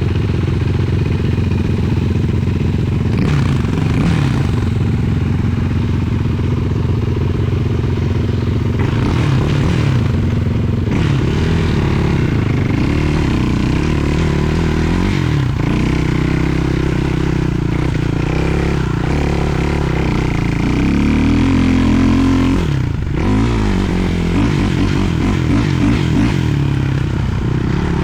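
Sport quad's 450cc single-cylinder four-stroke engine running loud while riding, its pitch rising and falling again and again as the throttle is worked and gears change.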